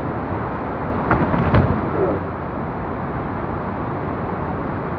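Steady rushing wind and rain noise, with a brief louder clatter of knocks about a second in.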